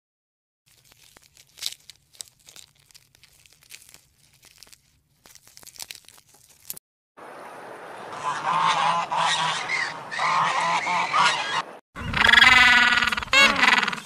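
A few faint clicks and rustles. Then, from about seven seconds in, a flock of waterfowl honking repeatedly. About twelve seconds in, loud wavering braying calls of penguins take over.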